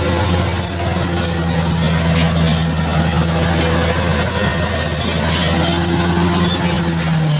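Bulldozer's diesel engine running steadily under load, with a high squeal from the steel crawler tracks that comes and goes. Right at the end the engine note drops as it throttles back.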